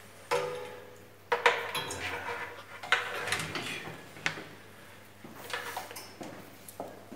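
Metal tools and small metal parts clinking and clattering during hand wiring work. There are four sharp clinks with a brief ring, spread over the first four seconds or so, and softer rattling after them.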